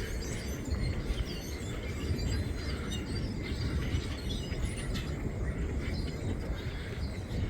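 Strong wind buffeting the microphone with a steady low rumble, and over it many short chirps from a large flock of birds.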